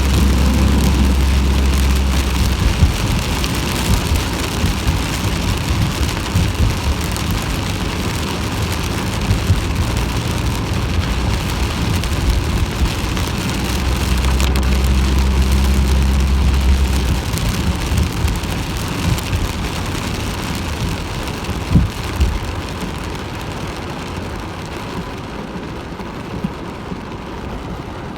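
Heavy rain pouring down in a dense, steady hiss. A low steady hum rises under it at the start and again about halfway through, and the rain thins a little near the end.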